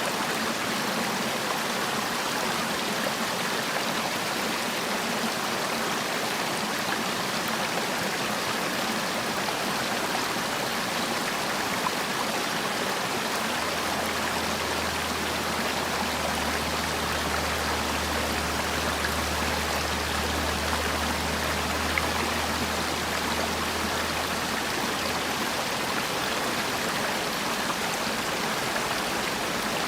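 Mountain valley stream flowing, a steady rush of water. A low rumble joins in about halfway through and fades out some ten seconds later.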